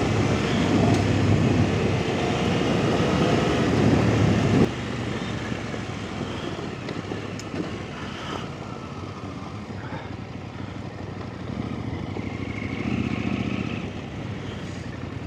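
Off-road motorcycle engine running under throttle, louder for the first four or five seconds, then dropping suddenly to a quieter, steadier run.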